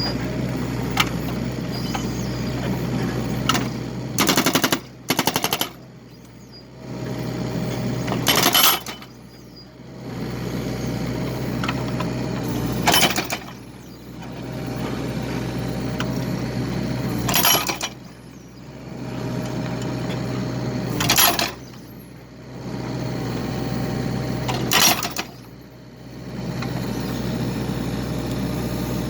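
Excavator engine running while it splits firewood, with a loud burst of sharp cracking impacts about every four seconds, six in all, each followed by a brief drop in the machine noise.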